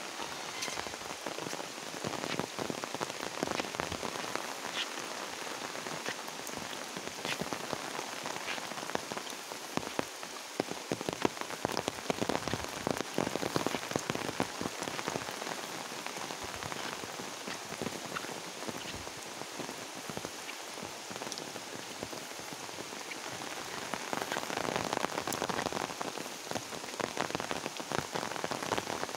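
Steady rain falling on the canal water, leaves and paving, with many separate drop hits close by.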